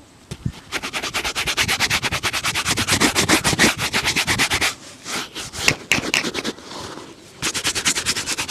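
Rapid back-and-forth buffing strokes on a leather shoe, about ten scratchy strokes a second, in a long run, a short break with a few slower strokes, then another fast run near the end.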